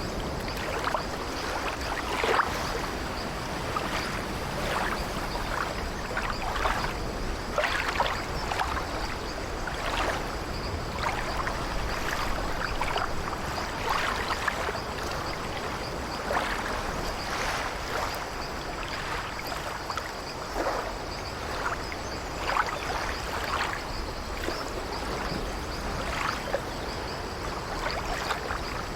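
Sea ambience aboard an old wooden sailing ship: waves washing steadily against the hull, with frequent short, irregular creaks of the ship's timbers.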